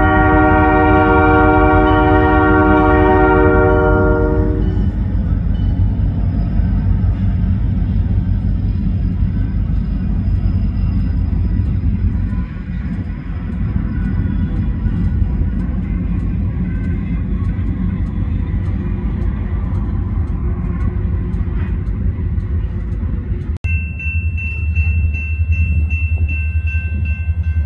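A CN diesel freight locomotive's air horn sounds a chord for about four and a half seconds, then the steady low rumble of loaded limestone hopper cars rolling past on the rails. Near the end, after a sudden break, a grade-crossing warning bell rings over the continuing low train rumble.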